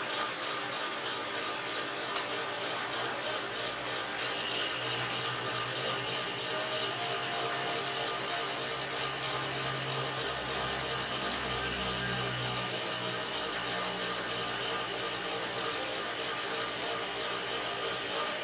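A machine running steadily with a whir. A higher steady whine joins about four seconds in.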